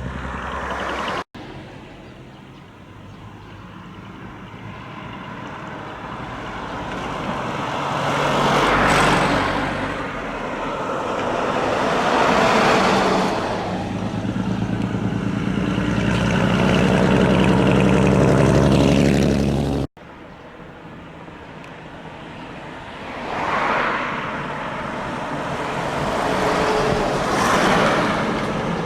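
Heavy trucks with split exhaust manifolds (mani-wari) driving past one after another. The loud, throaty exhaust note swells and fades as each truck goes by. The sound cuts off abruptly twice, at a little over a second in and again near two-thirds of the way through.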